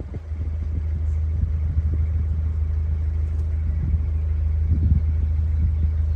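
Narrowboat's diesel engine running steadily under way, a low drone.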